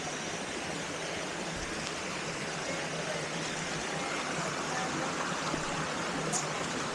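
Flowing water of a forest stream and waterfall, a steady rush.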